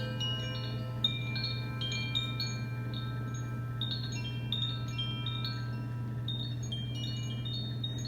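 Metal chimes being stirred, many high, bright notes struck at random and ringing into one another, over a steady low hum.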